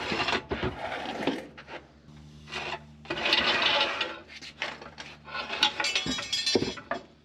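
Irregular scraping and rubbing in short bursts, with a few sharp knocks near the end: shop work on a truck with hand tools.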